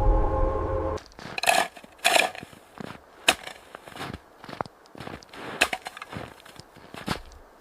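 A sustained musical drone cuts off about a second in. It is followed by a string of irregular crunches and cracks, like snow or wood being crushed and broken, coming about one or two a second.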